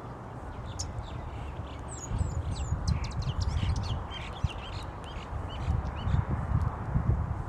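Birds chirping, a busy flurry of short high calls about two seconds in that thins out toward the middle, over a steady low rumble.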